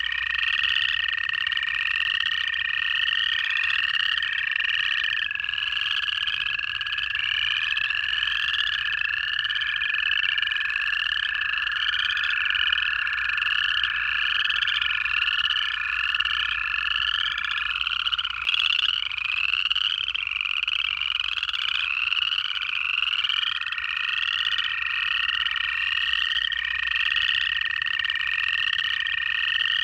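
Dense pond chorus of upland chorus frogs, their short rising trills repeating on top of one another. Long, steady American toad trills run underneath, one ending a little past halfway and another starting about three quarters of the way through.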